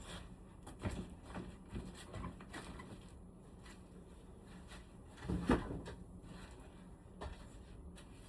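Scattered light clicks and knocks of things being handled, with a louder clatter about five and a half seconds in.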